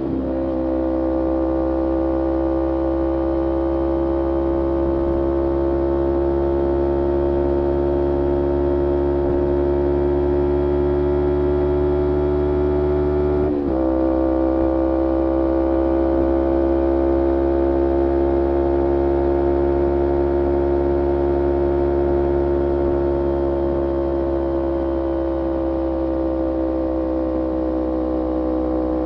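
A 2011 Kawasaki Ninja 250R's parallel-twin engine running through a full Graves racing exhaust, held at steady revs with the pitch drifting only slightly. There is a brief dip about halfway through, then it settles back to the same steady note.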